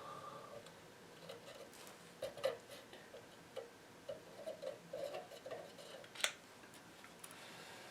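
Scattered light clicks and taps of hand tools and small parts being handled on a metal radio chassis, with one sharper click about six seconds in.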